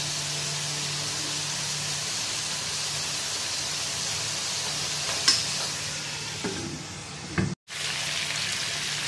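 Bone-in chicken pieces sizzling in oil and water in a non-stick wok: a steady frying hiss as the cooking water boils off. A sharp click about five seconds in, then a spatula scraping the pan, and the sound cuts out for a moment before the sizzling resumes.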